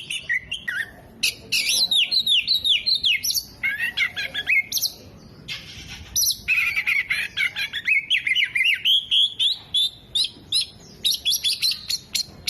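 Oriental magpie-robin (kacer) singing loudly: a fast, varied run of chirps, whistled glides and trills, with a brief pause about halfway.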